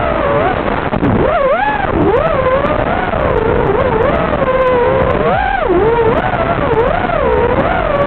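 Racing quadcopter's electric motors whining, the pitch swooping up and down again and again with the throttle.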